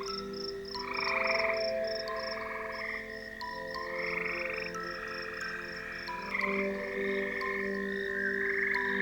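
Frogs calling at night in overlapping trills, with a high, short chirp repeating about three to four times a second, over long held steady tones.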